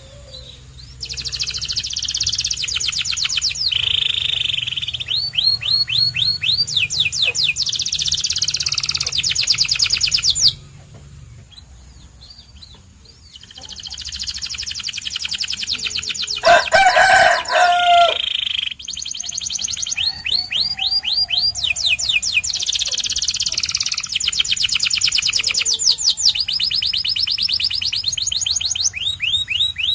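Domestic canary singing: long rolls of rapid repeated notes and trills, broken by a pause of about three seconds before the middle. Just past the middle, a louder, lower-pitched call cuts in for a second or two.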